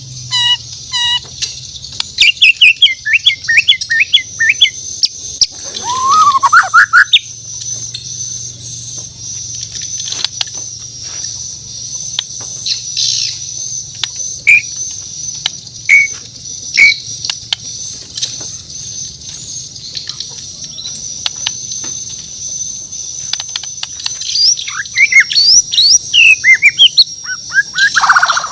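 White-rumped shama (Borneo murai batu) singing: bursts of gliding, whistled notes mixed with sharp clicks, sparse through the middle and busiest near the end. A steady high-pitched tone runs underneath.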